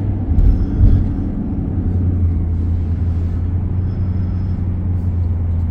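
Steady low drone of a vehicle's engine and road noise heard from inside the cab while driving, with a couple of low bumps about half a second to a second in.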